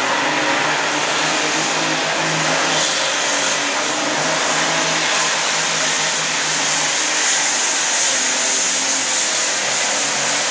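Altered farmstock pulling tractor's diesel engine held at full throttle while it pulls the weight sled, a steady, loud, hard-working drone with a high whine over it.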